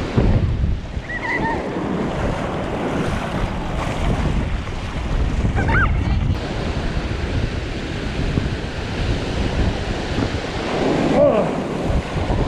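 Rough ocean surf breaking and washing up the beach, with wind buffeting the microphone. The surf is stormy, strong enough that standing close it is trying to pull a person back in.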